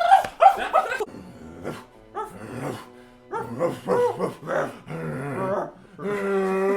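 A man's voice making weird wordless vocal noises: a string of short pitched squeaks and whines broken by pauses, ending in a held low note near the end.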